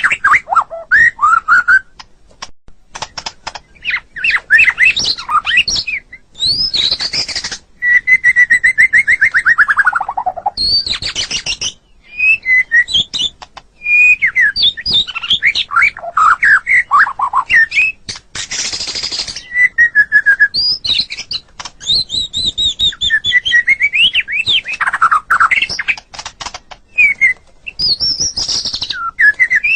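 White-rumped shama (murai batu) singing a long, varied song of clear whistles, quick chirps and slurred glides, broken by a couple of harsh rasping notes. About eight seconds in comes a long run of rapid notes sliding down in pitch.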